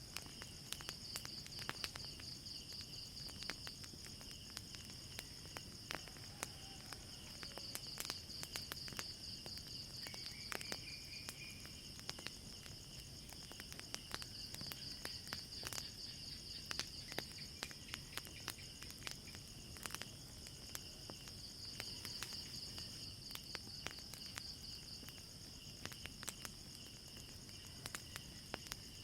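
Crickets chirping in a steady, pulsing high chorus, with the scattered sharp pops and crackles of a wood fire throughout.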